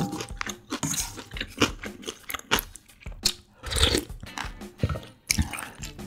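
Close-miked chewing of a mouthful of spicy jjambbong, with many quick crunching bites and a louder, fuller stretch about four seconds in.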